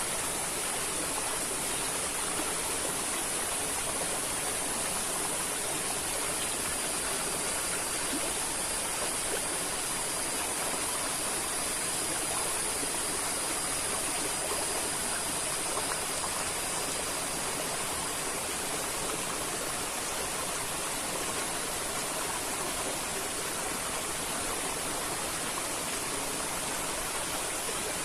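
River water flowing in a steady, unbroken rush. A faint thin high tone sits over it through the middle part.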